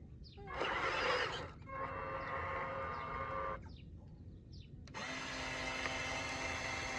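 Small electric motors whining in starts and stops, with a loud burst about a second in; about five seconds in the sound changes abruptly to a denser steady whir.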